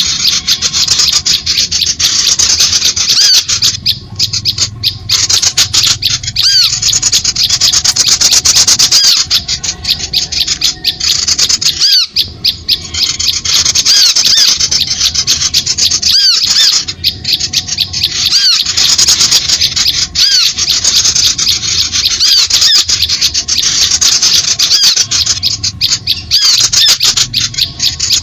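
A dense, continuous chorus of small birds' harsh, rapid chattering calls, many short chirps rising and falling. This is a bird-lure (pikat) recording, played to draw small birds in.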